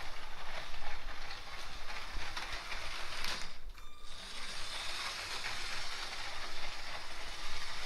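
Motorised Lego train running on plastic track: a small geared motor whirring, with a dense run of light clicks from the wheels. The sound drops away briefly about three and a half seconds in.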